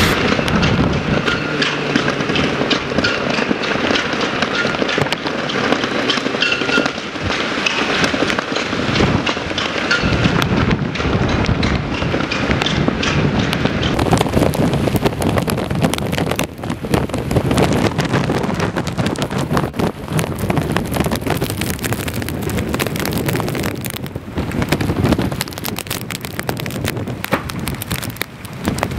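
Tropical-storm wind blowing hard across the microphone, with rain, a dense crackling and low rumbling that goes on without a break.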